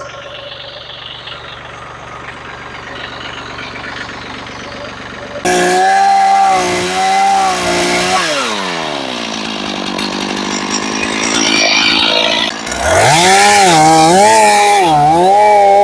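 Chainsaw revving up suddenly about five seconds in and cutting into a log, its pitch dipping as it bogs under load, then winding down. It revs up and cuts again for the last few seconds. Before that, a lower engine idles steadily.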